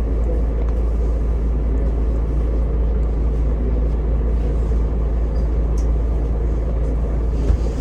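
Steady low rumble of a vehicle on the move, heard from inside, with a short knock near the end.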